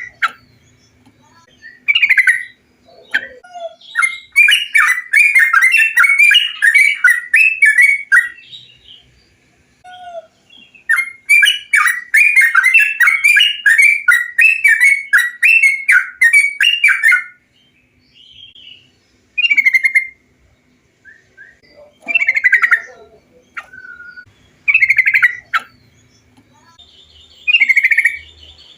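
Bulbul (trucukan) song: short bubbly whistled phrases, with two long runs of rapid chattering notes in the first half, then single phrases every two or three seconds.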